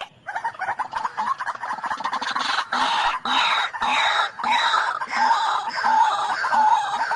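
White-breasted waterhen calling: a long run of repeated harsh notes, about one and a half a second, building in strength over the first couple of seconds and then steady.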